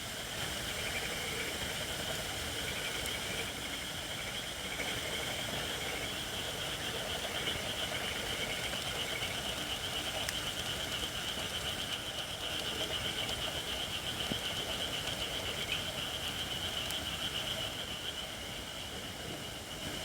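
Campfire of Japanese white oak logs burning with a steady high-pitched hiss, the steam of moisture escaping from logs that are not yet dry enough, and an occasional faint pop.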